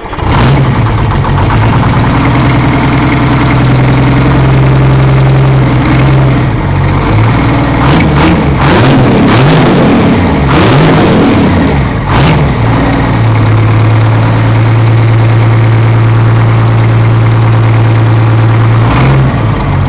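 GM Detroit Diesel 6-71 two-stroke inline six-cylinder diesel engine running loud. It comes in suddenly at the start, runs steadily, is revved up and down several times in the middle, then settles back to a steady lower idle.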